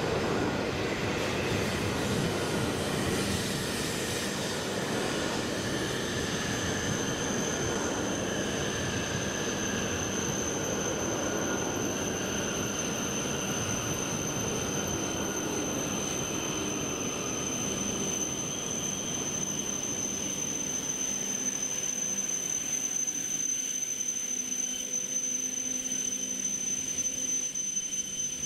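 E7 series Shinkansen train rolling slowly past as it pulls into the station, its running rumble thinning out in the second half. A steady high whine comes in about six seconds in and grows stronger to the end.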